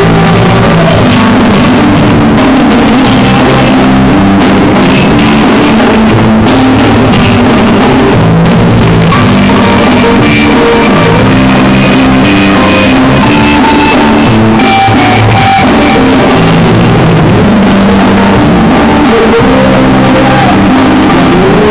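Loud rock music: a band with guitars and drum kit playing without a break.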